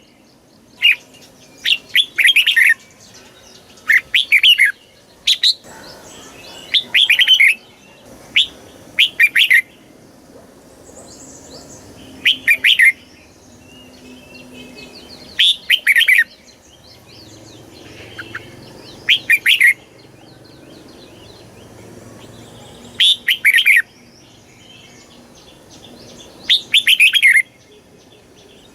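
Red-whiskered bulbul singing: short, loud, warbling whistled phrases repeated every one to four seconds, with longer pauses in the second half.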